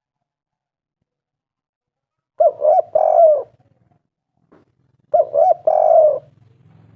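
Spotted dove cooing: two phrases about two and a half seconds apart, each made of two short coos followed by a longer, drawn-out coo.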